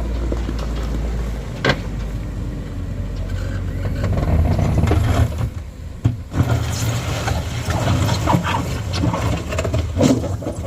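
Heavy vehicle engines running, growing louder in the middle, with a few sharp knocks.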